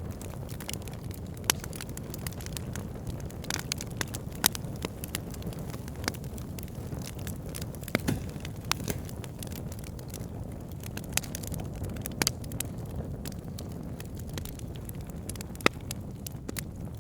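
Wood fire burning with logs crackling: a steady low rumble of flames with irregular sharp pops and snaps, a few of them louder than the rest.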